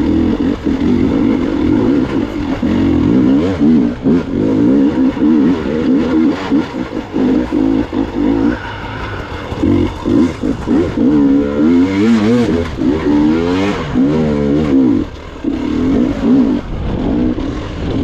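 Gas Gas EX 300 two-stroke dirt bike engine under a rider, revving up and down in quick surges as he works the throttle over rough trail, easing off briefly about halfway through and again near the end.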